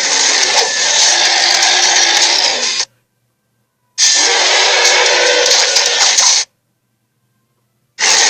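Fantasy creature sound effects: loud, gritty, noisy growl-like calls that start and stop abruptly. There are three takes: one stops about three seconds in, the next runs from about four to six and a half seconds, and the last starts near the end, with a second or so of dead silence between them.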